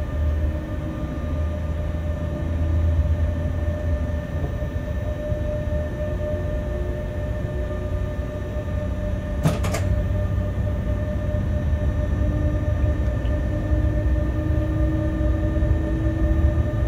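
Freight train locomotive running along the track: a steady low rumble with a few steady whining tones over it, and two sharp clicks close together about halfway through.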